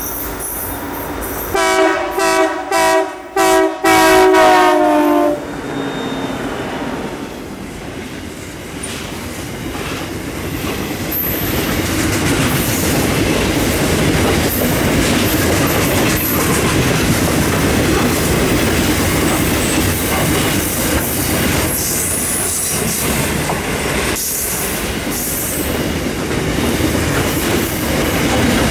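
Locomotive horn sounding a few short blasts ending in a longer one, then a loaded grain train hauled by two diesel locomotives rolling past: a steady, loud rumble of locomotives and wagons with the clatter of wheels over the rails, building up and holding.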